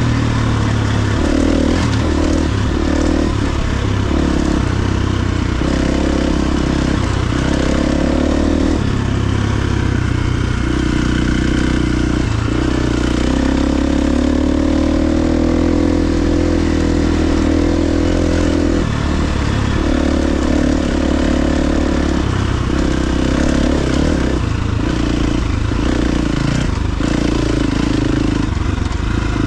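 KTM 350 XC-F dirt bike's single-cylinder four-stroke engine running under way, its note rising and falling in steps as the throttle opens and closes through the ride.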